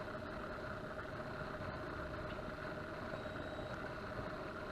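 Outboard boat motor idling steadily, with a constant hum.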